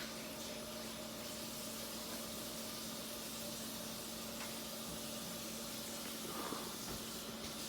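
Montgomery ceiling fan running steadily: an even whoosh of moving air over a constant low hum.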